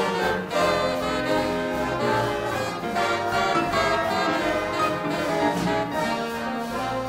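Live big band playing a 1940s swing-era jazz number, the brass section of trumpets and trombones leading over saxophones and a steady beat.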